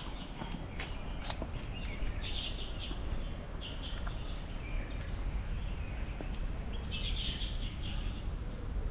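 Small birds chirping in short bursts, several times over the few seconds, against a steady low rumble of outdoor background noise.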